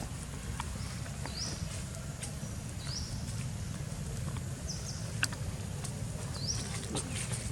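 A short, high chirp rising in pitch, repeated about every second and a half to two seconds, over a steady low rumble with scattered faint clicks.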